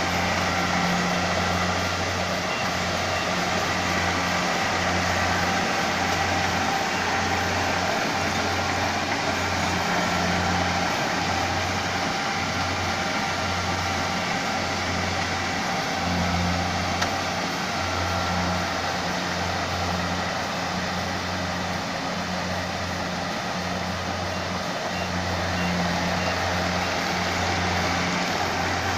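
Rice combine harvester running steadily, its engine and machinery a continuous dense noise over a low hum that swells and dips irregularly.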